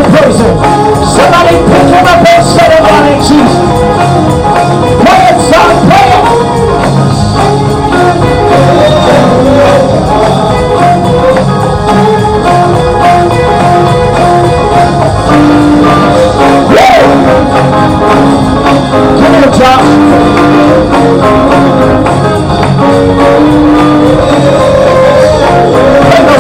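Loud live gospel praise music: singing over instruments and percussion, with held keyboard-like notes and a busy beat.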